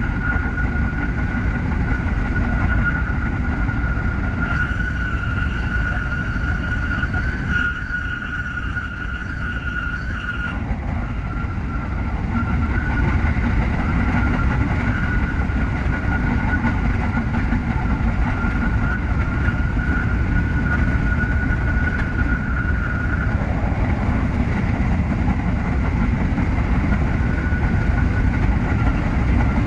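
Tsukuba Express TX-3000 series electric train running: a steady low rumble with a constant high whine. A few higher tones join in for several seconds from about five seconds in.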